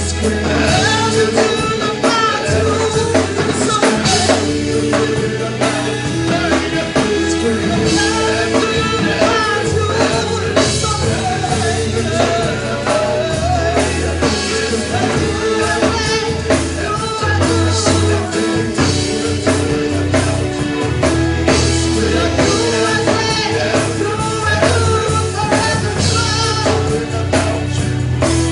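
Live worship band playing a song with singing, backed by drum kit, bass and guitar.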